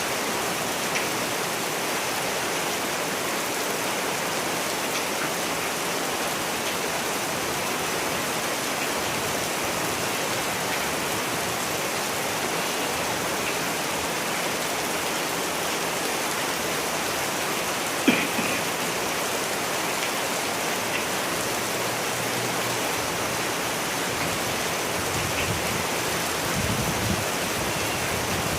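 Steady rain falling, an even unbroken hiss. A single sharp tap stands out about two-thirds of the way through.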